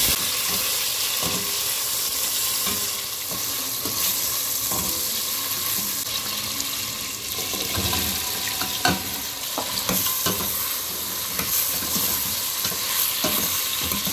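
Onion and tomato pieces sautéing in hot oil in a stainless steel pot, with a steady sizzle and scattered clinks and scrapes of a metal spoon stirring against the pot.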